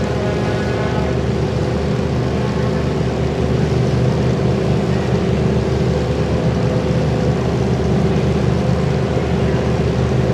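Demolition derby car engines running, a loud, steady drone with no letup.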